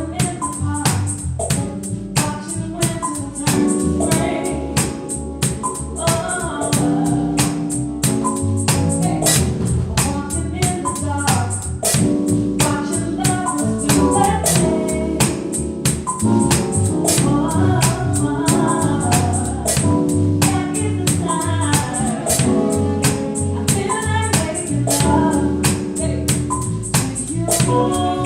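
Band playing music with singing over a steady drum beat and tambourine.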